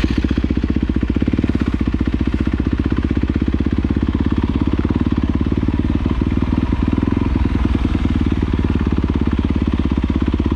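Dirt bike engine idling steadily close by, with an even, rapid pulse and no revving.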